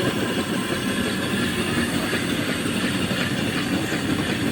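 Two small steam engines (2.75-inch bore, 4-inch stroke) of a homemade steam donkey yarder running slowly and steadily on low-pressure steam, with a fast, even run of exhaust beats and mechanical clatter. The cylinder pet cocks are closed, so the engines run smoothly.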